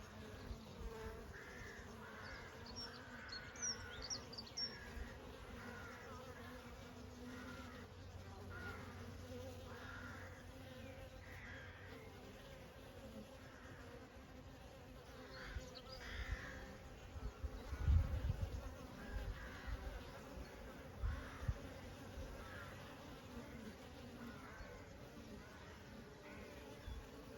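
Honey bees buzzing in a steady, many-voiced drone. A few brief high chirps come in about 3 to 5 seconds in, and a few low thumps and rumbles come about two-thirds of the way through.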